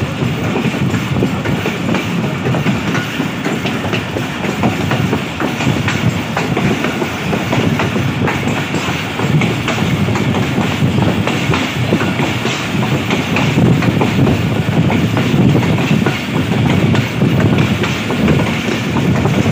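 Moving passenger train heard from aboard the coach: a steady rumble of wheels running on the rails with scattered clicks over the track.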